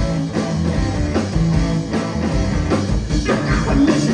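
Live rock band playing a groove between sung lines: electric guitar, bass and drum kit keeping a steady beat.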